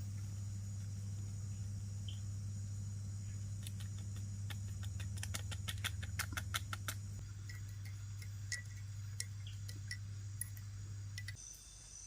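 A quick run of light clicks and clinks from about four to seven seconds in, over a steady low hum that cuts off shortly before the end.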